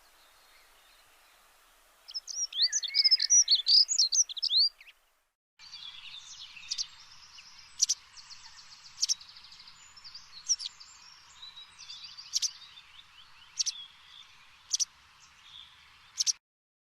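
Birds chirping: a dense burst of quick whistled chirps for about three seconds, then after a short break scattered sharp chirps and brief trills over a faint outdoor hiss.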